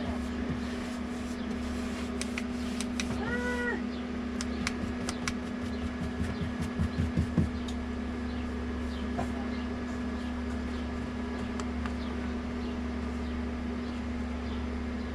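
Steady low mechanical hum. A short rising-then-falling call about three seconds in, and a quick run of thumps around seven seconds in.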